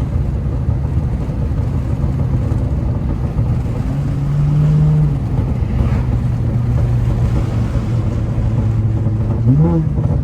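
Honda Accord V6 engine running under way, heard from inside the car over steady road noise. The revs climb briefly about four seconds in. Near the end they jump sharply and fall back in a strong downshift.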